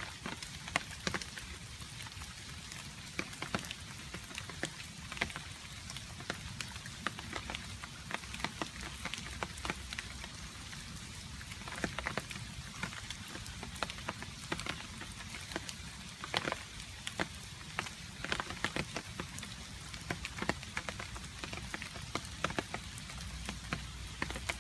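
Rain falling steadily, with water drips landing close by as irregular sharp taps over the even patter.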